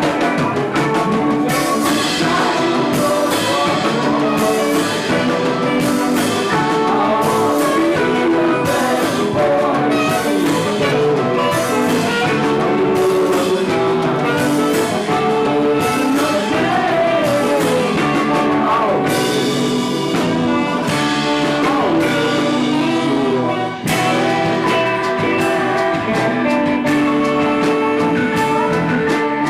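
A band playing a song live, loud and continuous, with a momentary drop in level late on.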